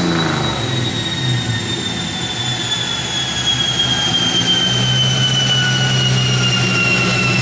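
Turbocharged 5.2 L V8 Dodge Dakota on a chassis dyno just after a pull, engine running low with a high whine that slowly falls in pitch as the drivetrain coasts down. A steady low engine note comes in about halfway through.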